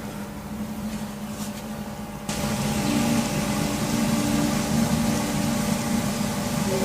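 A steady low droning hum with several held tones under a rushing noise, growing louder and noisier about two seconds in: one of the unexplained 'strange sounds' reported worldwide in 2017.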